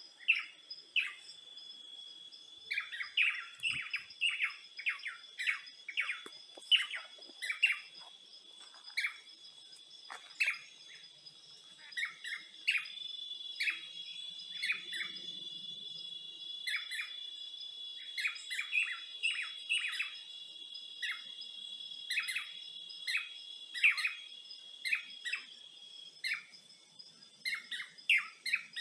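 Birds chirping over and over in short, sharp notes, over a steady high insect drone.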